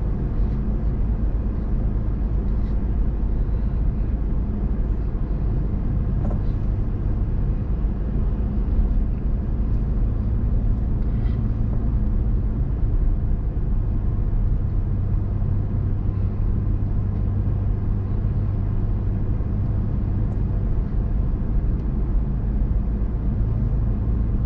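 Steady engine and road rumble of a vehicle cruising on a highway, heard from inside the cab, with a constant low hum.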